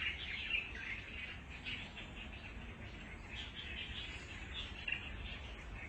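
Birds chirping: many short, high calls coming and going, over a faint low background hum.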